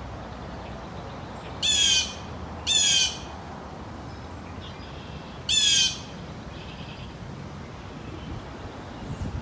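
Steller's jay giving three harsh, squawking calls, each about half a second long: two close together about two seconds in and a third a few seconds later. Fainter chirps of other birds sound between them.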